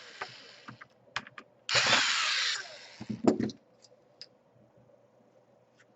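Electric screwdriver runs once for about a second, driving one of the laptop's case screws. A couple of knocks follow, then a few faint small clicks.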